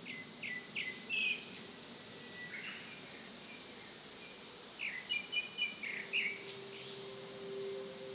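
A songbird singing two short phrases of quick chirps, the second about five seconds in. About six seconds in, a steady low held tone begins: the start of soft background music.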